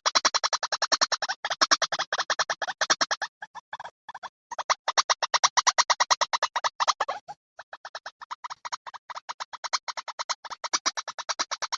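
Recorded call of the white-breasted waterhen (ruwak-ruwak), played as a hunter's lure: fast stuttering runs of short harsh pulses at about ten a second, broken by brief pauses twice.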